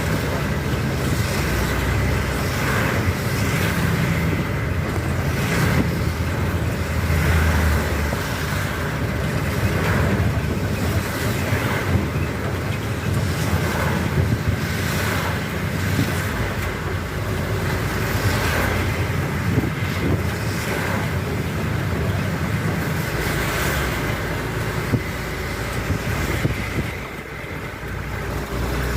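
Heavy rain with vehicles passing on a wet road, their tyres hissing through the water in repeated swells.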